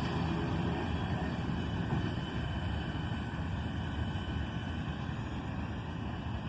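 Freight train rumbling steadily, slowly fading as it moves away.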